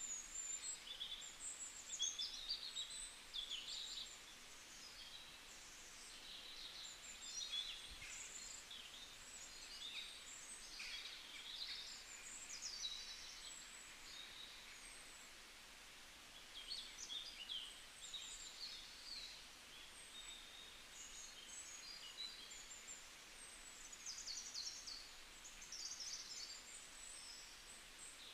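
Small birds chirping, many short high calls coming one after another, over a faint steady hiss.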